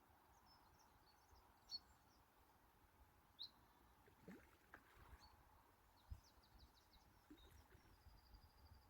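Faint birdsong over quiet outdoor background: scattered short high chirps, with a quick run of notes and then a short even trill near the end.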